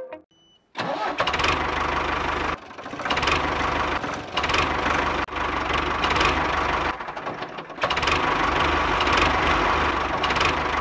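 A small engine running with a fast chugging beat as a model tractor drives. It comes in several stretches that break off and start again, after a brief silence at the very start.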